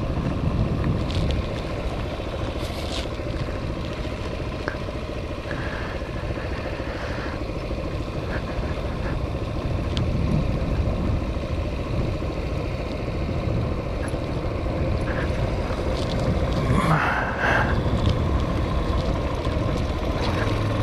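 Hawk 250 motorcycle engine running at low speed, with wind buffeting the microphone. Near the end a steady low hum sets in.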